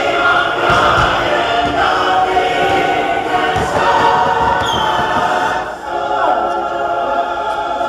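Music with a chorus of voices singing a song.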